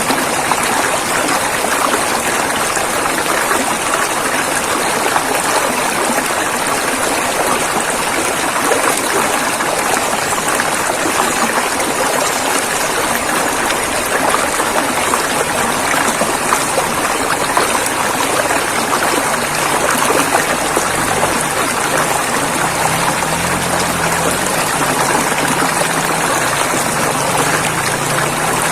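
A river flowing, a steady rushing of water with constant splashing. A faint low warble joins underneath near the end.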